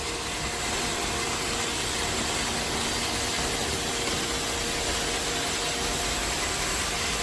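iRobot Roomba Combo robot vacuum running as it cleans the floor: a steady whirring hum from its suction and brushes, with a faint high whine over it.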